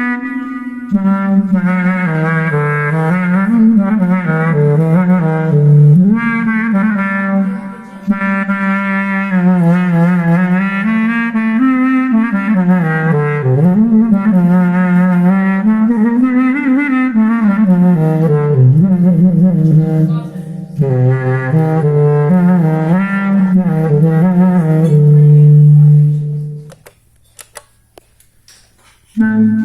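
Clarinet-like solo melody from a Zoom G3n multi-effects processor's clarinet sound, a single line with sliding, bending notes. It stops about 27 seconds in, and a new phrase begins just before the end.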